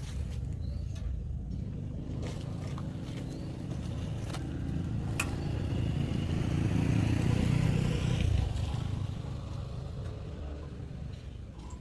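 Motor vehicle engine running with a low rumble that swells to its loudest a little past the middle and then fades away, with a few sharp clicks along the way.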